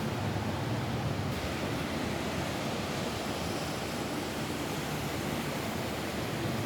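Rain falling steadily on a roof: an even, unbroken hiss with a heavy low rumble.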